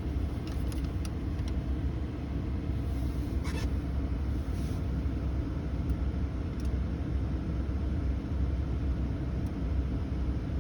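Steady low rumble of a 2019 Ram 1500's climate-control blower pushing air out of the dash vents, with the engine idling, heard inside the cab. The system is stuck blowing hot air though it is set to 21 °C. A few faint clicks come a few seconds in.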